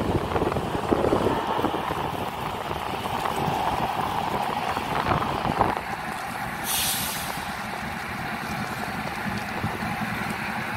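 Union Pacific freight train rolling past, a steady rumble of wheels on rail mixed with wind on the microphone. The rumble drops away about six seconds in, and a brief hiss follows about a second later.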